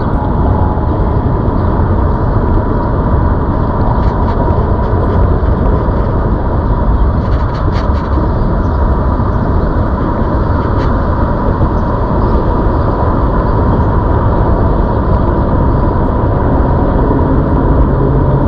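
Wind buffeting the microphone and tyre rumble from a ZOOZ electric bike being ridden, with the motor's steady high whine underneath and a few light clicks.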